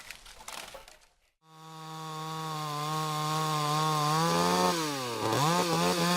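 Stihl Contra two-stroke chainsaw running at high revs with a steady pitch. About four seconds in, its pitch drops sharply as it bogs under load in the cut, then picks back up. Before it, a fading noisy sound in the first second ends in a short break.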